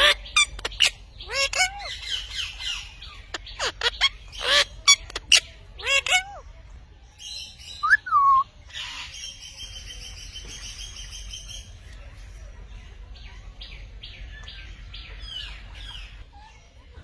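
Parrots calling: a quick run of sharp squawks and chirps over the first six seconds or so, then a longer held screech around the middle, then softer chirps.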